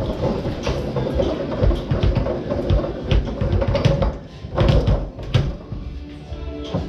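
Foosball being played on a Tornado table: irregular sharp clacks and thuds as the ball is struck by the rod figures and knocks against the table and walls.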